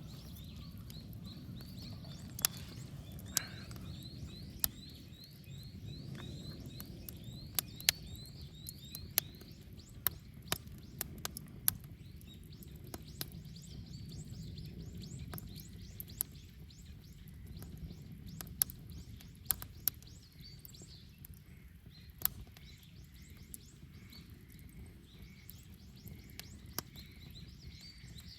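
Wood bonfire burning with irregular sharp crackles and pops over a low steady rush. A bird chirps in quick repeated notes through the first several seconds, and a row of fainter evenly spaced notes comes near the end.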